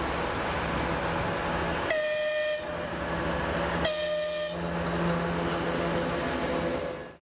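TEP70BS diesel passenger locomotive sounding two short blasts on its horn, about two seconds apart, over the steady running of its diesel engine as it approaches with its train.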